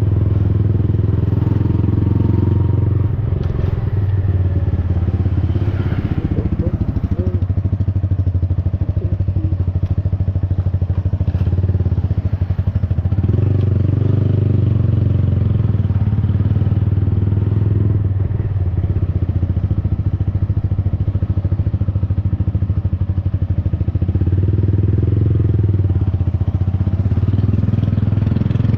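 Yamaha XSR 155's single-cylinder engine running through an aftermarket Akrapovic-replica exhaust while riding. The steady exhaust note swells louder a couple of times.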